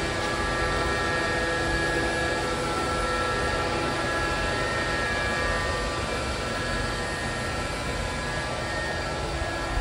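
iLife robot vacuum cleaner running: a steady whir of its suction fan and brushes, with a constant motor whine.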